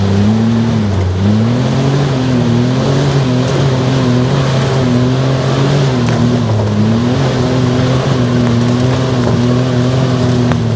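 Off-road buggy's engine running under load while driving, its pitch rising and falling with the throttle, over a steady hiss of rain and wet tyres.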